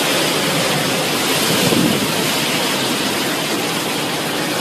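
Hurricane-force wind and rain making a steady, unbroken rush of noise.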